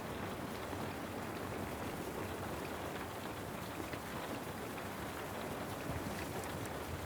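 Steady rain falling: an even, unbroken hiss with a few faint scattered ticks.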